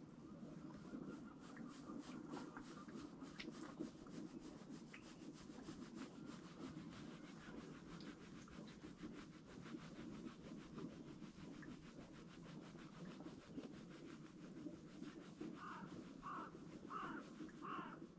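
Faint steady background noise with light crackling. Near the end a bird calls five times in quick succession, each call a short falling note.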